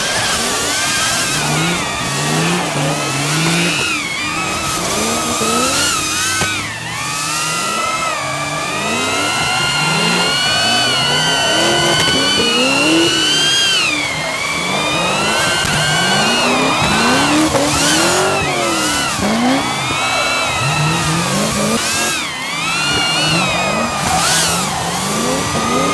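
Drift cars' engines revving hard again and again, their pitch climbing and dropping, mixed with the high whine of an FPV drone's motors that swoops up and down as it flies.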